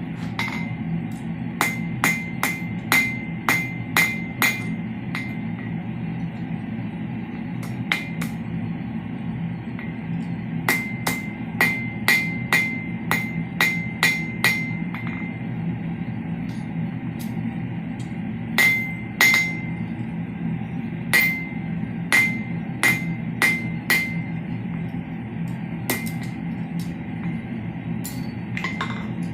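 Hand hammer striking steel on an anvil in runs of quick blows, about two a second, with single strikes between them; each blow rings with a clear metallic ping. A steady low hum runs underneath.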